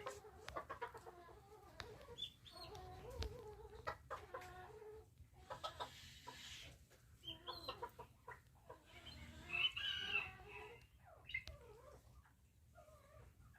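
Bantam chickens clucking in short repeated calls, with a louder, longer call about ten seconds in.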